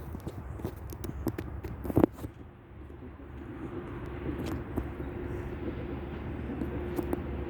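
A 2TE25KM diesel locomotive approaching with a steady low rumble and a held engine tone, growing slowly louder. A few sharp knocks in the first two seconds, the loudest about two seconds in.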